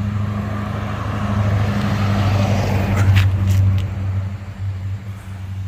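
Vehicle engine running steadily at low revs, a constant low hum, while a rushing noise swells up in the middle, peaks around three seconds in with a few short clicks, then fades.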